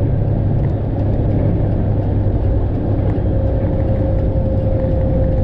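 Straight-piped Detroit diesel engine of a Freightliner Classic XL running steadily, heard from inside the cab as an even low drone with a faint steady whine above it.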